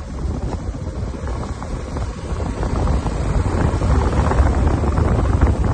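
Wind buffeting the microphone: a low, rumbling rush with crackles that grows louder about three seconds in.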